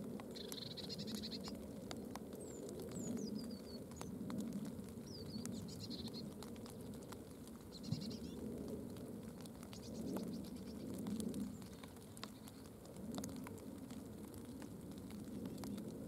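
Small birds' high calls: a few thin falling chirps and short buzzy bursts, over a louder low sound that swells and fades every second or two.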